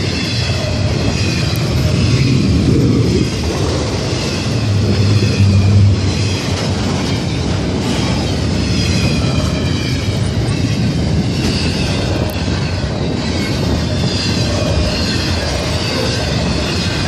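Canadian Pacific double-stack container train passing at speed: a loud, steady rumble of wheels on rail with clickety-clack, swelling briefly a few seconds in, and a wavering high squeal from the wheels.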